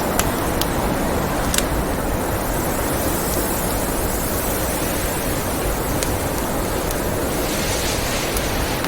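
Steady rushing blizzard wind, with a wood fire crackling over it: a handful of sharp pops and snaps scattered through.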